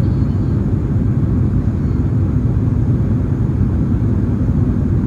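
Steady low rumble of engine and airflow noise heard inside the passenger cabin of a Boeing 767-300ER airliner in flight.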